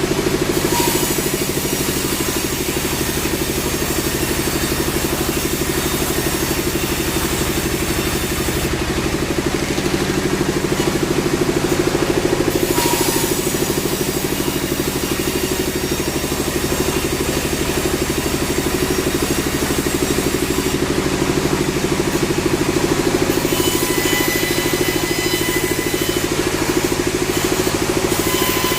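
Sawmill machinery running: a steady engine drone that holds even throughout, with a hiss over it that drops away twice for a few seconds.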